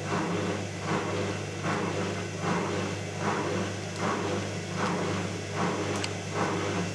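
Electrolux washing machine running its spin cycle: a steady low hum with a rushing swell that comes round a little more than once a second. The sound is rougher than when new, which the owner puts down to the ball bearings wearing after years of use.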